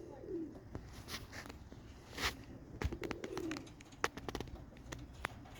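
Racing pigeons cooing softly, a low coo near the start and another about three seconds in, with scattered sharp clicks and taps.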